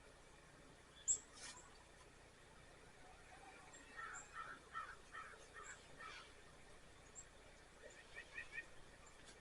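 Faint birds calling: a run of about seven harsh, cawing notes in the middle, and a quick, even run of chirps near the end. A sharp click comes about a second in.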